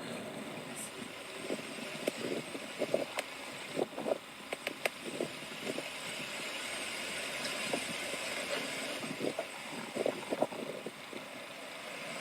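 Vehicle noise: a steady hiss with many short knocks and clicks scattered through it.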